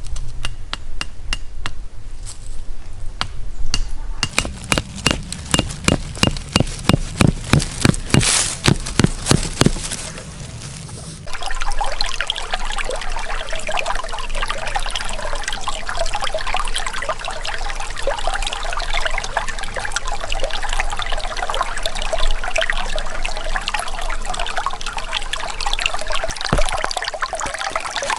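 A run of sharp knocks, about two a second, like wood or metal being struck. About eleven seconds in they give way to a steady rushing like running or pouring water.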